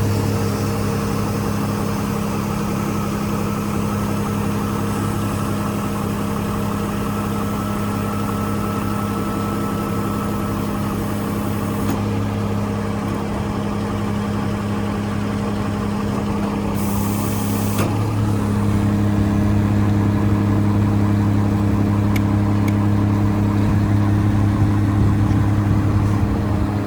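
Scania P114 380 truck's 11-litre inline-six diesel idling steadily.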